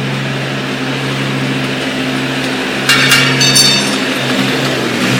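1986 International tractor's diesel engine idling steadily, with a few sharp, ringing metallic clinks about three seconds in.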